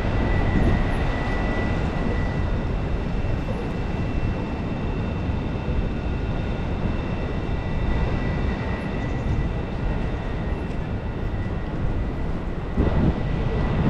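Rainy city street ambience: a steady rumble of traffic and wind noise, with a faint steady high tone running through it, swelling briefly near the end.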